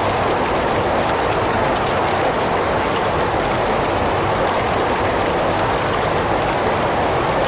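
Heavy rain falling steadily: a dense, even hiss with no single drops or changes standing out.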